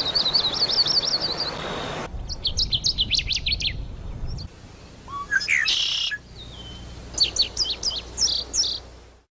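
A run of different songbirds' calls, one after another: first a quick string of rising-and-falling chirps, then a short run of sharp notes, a harsher call, and a series of short whistled notes. It cuts off suddenly near the end.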